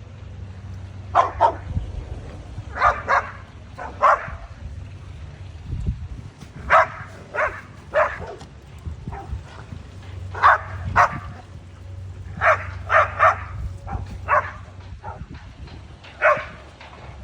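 Dogs barking in short, irregular bursts, single barks and quick runs of two or three, over a steady low hum.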